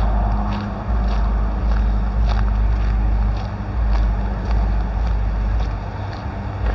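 Wind buffeting the microphone in gusts, a loud low rumble, with faint regular ticks about twice a second.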